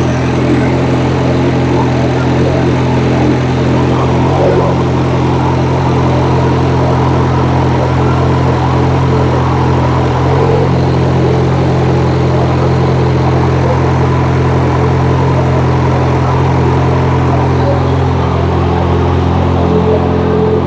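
Audi A4 TFSI engine idling steadily, running with a newly fitted hydraulic lash adjuster and exhaust cam follower after a collapsed lifter.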